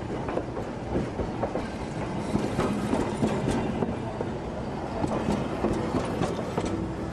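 Steam train's cars rolling on the rails: a steady rumble with irregular clicks and knocks from the wheels.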